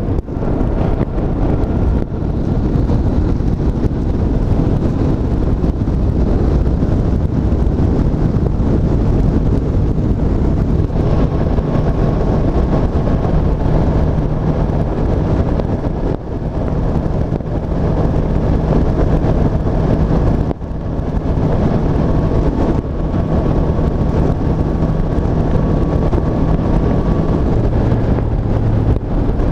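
Honda CB500F's 471 cc parallel-twin engine running under way on a ride, with wind noise over the microphone. The engine note holds steady and drops briefly a few times.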